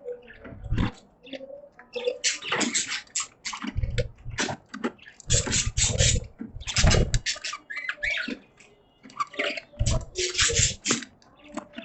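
Budgies chattering and chirping in a cage: rapid, scratchy warbling in irregular bursts with short gliding notes, mixed with low thumps.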